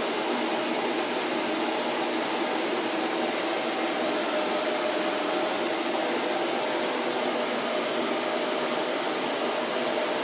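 Vacuum cleaner running steadily: an even rushing noise with a faint steady hum, with no change in speed.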